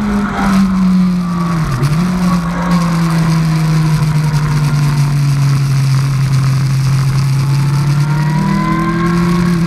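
2003 Yamaha R1's inline-four engine running on track, heard from a helmet-mounted camera over steady wind rush. Its pitch falls over the first two seconds with a brief dip, holds steady, then rises a little near the end.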